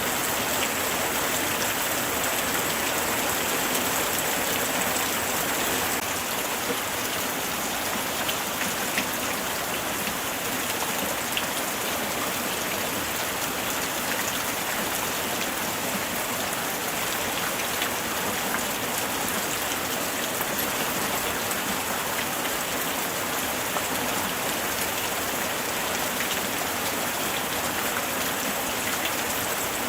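Steady light rain falling and pattering on surfaces, a dense even hiss of drops with scattered small ticks.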